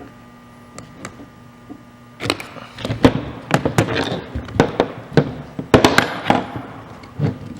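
Irregular clattering and knocking of a pole saw's chain and guide bar being handled and fitted, sharp metal and plastic clicks in quick succession, starting about two seconds in and stopping shortly before the end.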